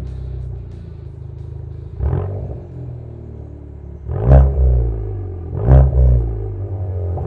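Hyundai i30 1.4 T-GDi turbocharged four-cylinder petrol engine idling through a handcrafted custom exhaust, blipped three times: a short light rev about two seconds in, then two sharper, louder revs about four and five and a half seconds in, each dropping back to idle.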